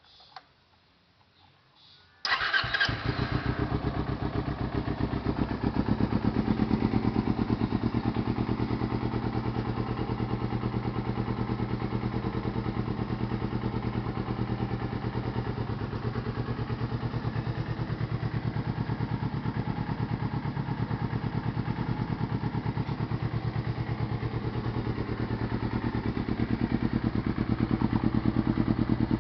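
Kawasaki Ninja 250R's parallel-twin engine, fitted with a HUNG aftermarket exhaust, starting up about two seconds in and then idling steadily. It gets slightly louder near the end.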